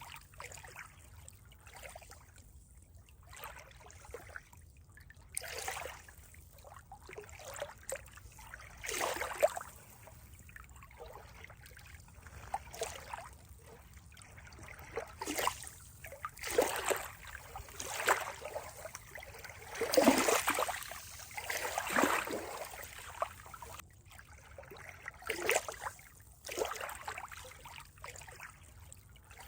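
Water trickling and splashing in irregular bursts, with a louder run of splashes about two-thirds of the way through.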